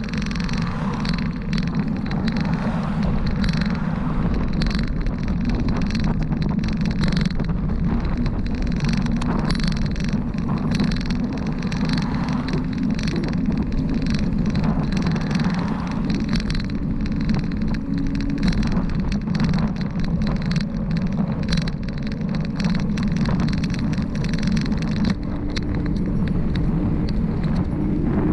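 Steady rushing wind and road noise from a bicycle coasting downhill on a paved highway, with many small rattles and clicks throughout.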